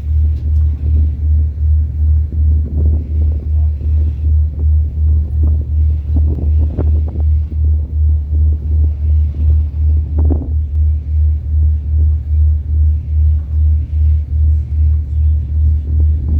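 Passenger ferry's engine and propeller throbbing in a steady low pulse, about two to three beats a second, heard on board while under way. A few faint brief knocks or voices rise over it now and then.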